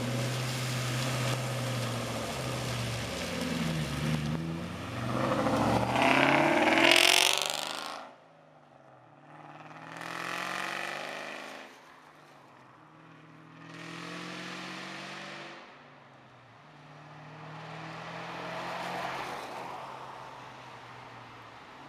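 2003 Ford Mustang SVT Cobra's supercharged 4.6-litre V8, through an off-road H-pipe and Dynomax Racing Bullet mufflers, running close by and then revving up hard as the car pulls away. It is loudest about seven seconds in and drops off sharply just after. The exhaust then rises and falls three more times, farther off, as the car accelerates through the gears.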